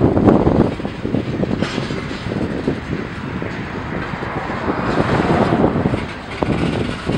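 Train rolling past close by in a rail yard: a loud, rough rumble full of clicks and knocks that sets in sharply.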